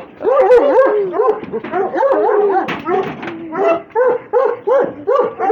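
Russian hounds whining and yelping: a rapid, continuous run of short, wavering high cries.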